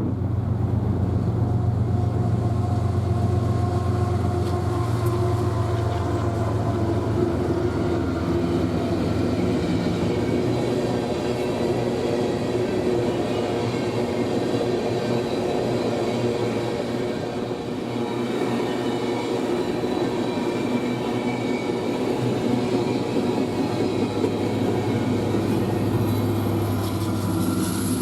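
Empty coal train's cars rolling past, steel wheels running on the rails with a steady rumble and ringing wheel tones.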